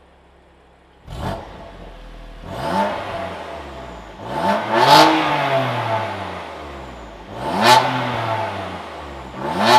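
BMW M2 Competition's twin-turbo inline-six, with a catless Rogue downpipe, free-revving at a standstill. It flares sharply about a second in, then settles to idle and is blipped four times, each rev rising and falling.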